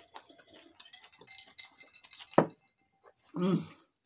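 Close-up chewing of a crunchy taco shell: a run of small wet clicks and crackles. A single sharp knock comes about two and a half seconds in, then a short hummed "mm".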